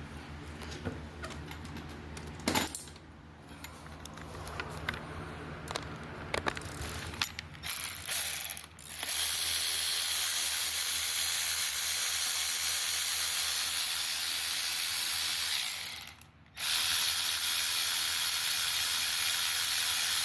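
Ratchet wrench clicking, quiet and intermittent at first, then fast and continuous for most of the second half as it spins nuts off a KTM 65 dirt bike's cylinder head, with one brief pause.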